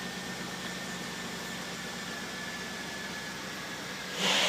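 2011 Chevrolet Tahoe's V8 idling, heard from inside the cabin as a steady low hum under the even hiss of the climate-control blower.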